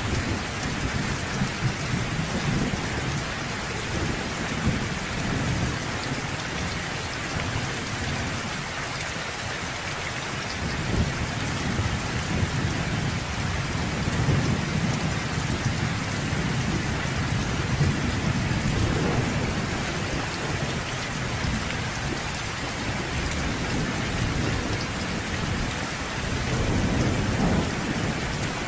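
Steady rain falling in a thunderstorm, with low thunder rumbling in long swells: one near the start, a longer one in the middle, and another near the end.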